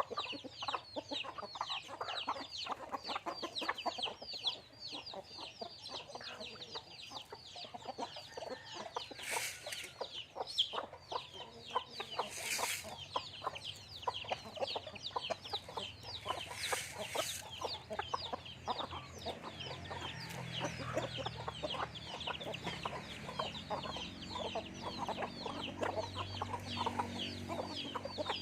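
A flock of chickens clucking and peeping as they feed: a dense, continuous stream of short, high, falling calls, with a few brief rustling noises.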